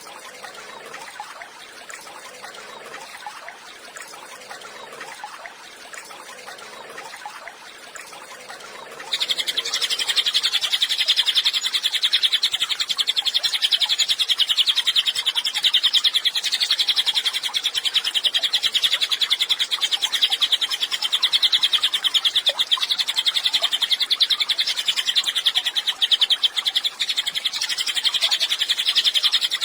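Cililin songbird singing a loud, continuous, very rapid high-pitched trill that starts about nine seconds in; before that only a faint hiss.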